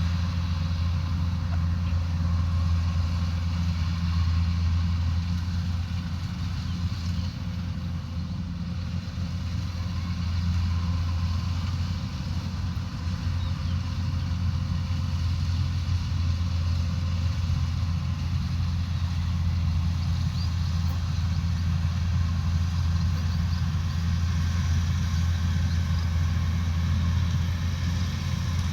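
Combine harvester's diesel engine running steadily, a continuous low drone with mechanical rattle and hiss over it, easing slightly for a few seconds partway through.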